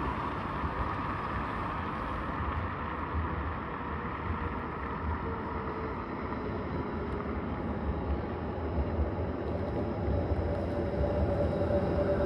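Rail vehicle running, with a steady rumble and a faint whine that grows louder near the end.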